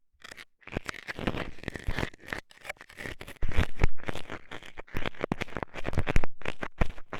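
Metal scaler scraping and jabbing at an ear microphone in ear-cleaning ASMR: a rapid, harsh run of scratching strokes that starts about half a second in, with a brief pause near the end.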